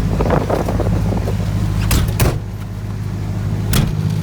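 A vehicle engine running steadily, with a low hum, and sharp clicks or knocks: two about two seconds in and one near the end.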